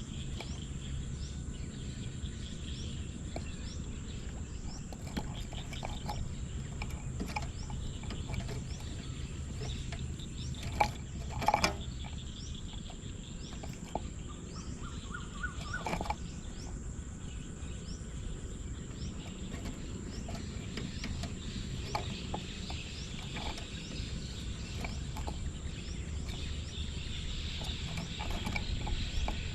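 Outdoor ambience with small birds chirping again and again over a steady high whine and a low steady rumble. A brief cluster of loud clicks comes about eleven seconds in.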